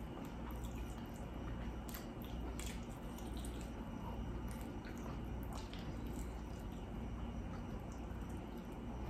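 A person chewing chicken wings, with irregular wet mouth clicks and smacks.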